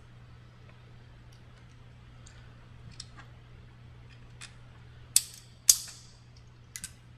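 Metal parts of a StairMaster SC916 stair climber's spring pulley assembly clicking and clinking as they are handled and fitted: a few light clicks, then two sharp, loud clinks about five seconds in and a quick double click near the end. A steady low hum runs underneath.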